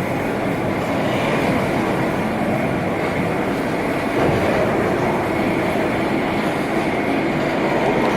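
Sawmill machinery running with a continuous loud rattling clatter.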